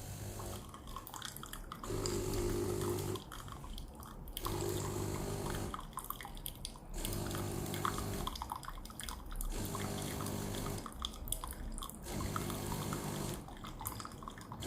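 De'Longhi coffee machine running its rinse cycle: its pump hums in repeated pulses of about a second, roughly every two and a half seconds, while hot water trickles and drips into the cup.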